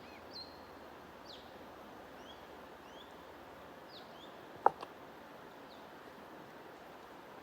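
Songbirds chirping in short, scattered high notes over a steady background hiss. One sharp, loud click comes about four and a half seconds in.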